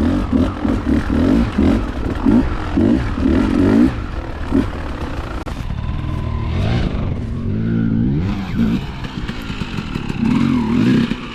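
Dirt bike engine revving in repeated short bursts, then running steadier with its pitch rising and falling midway, and another burst of revs near the end, as the bike is ridden along a woods trail.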